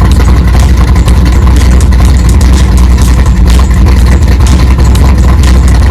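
A car engine idling loudly close by: a steady low rumble with rapid, uneven pulses.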